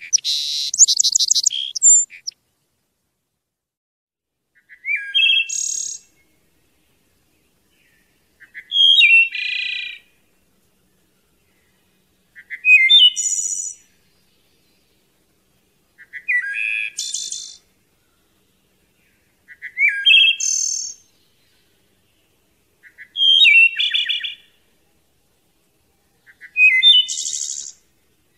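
A songbird repeating the same short song phrase eight times, about every three and a half seconds. Each phrase is a quick run of whistled and trilled notes, with silent gaps between phrases.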